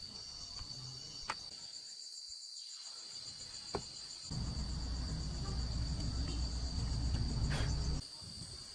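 Insects chirring: a steady high-pitched drone with a faint fast pulsing above it. A couple of small clicks come in the first four seconds, and a low rumble runs from about halfway through and stops abruptly near the end.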